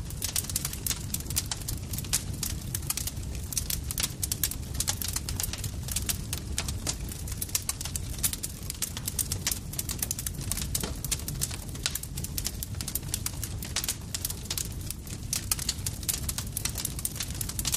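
Campfire crackling steadily: many sharp, irregular pops and snaps over a low, constant rumble of burning.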